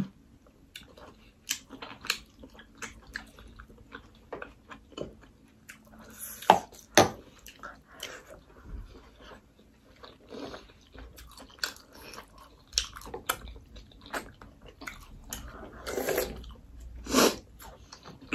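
Two people eating momo dumplings close to the microphone: wet chewing and lip smacking with many short clicky mouth sounds, and a few louder, wetter ones about six to seven seconds in and again near the end.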